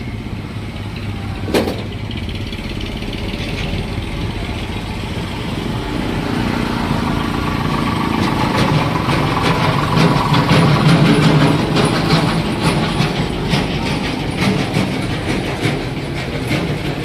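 A vehicle engine running, growing louder to a peak about ten seconds in and then easing off, with rattling throughout and one sharp knock about a second and a half in.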